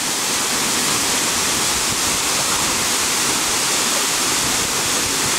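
Waterfall rushing into its pool: a steady, even roar of falling water.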